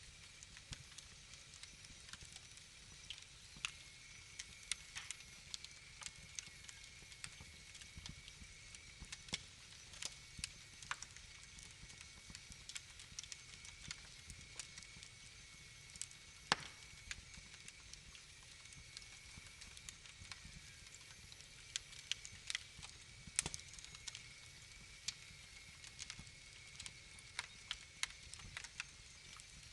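Wood fire in a fireplace crackling: irregular sharp pops and snaps over a steady low hiss. The loudest snap comes a little past halfway, with a cluster of louder pops after the two-thirds mark.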